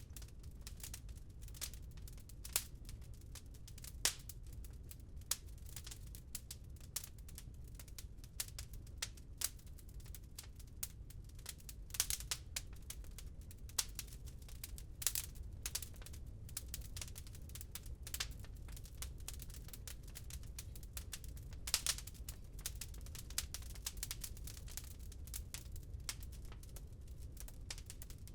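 Wood fire crackling in a fireplace: irregular snaps and pops, a few much sharper than the rest, over a steady low rumble.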